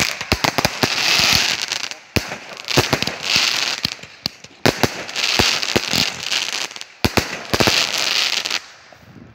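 Firework cake firing: rapid sharp bangs with crackling, in about four volleys roughly two seconds apart, stopping shortly before the end.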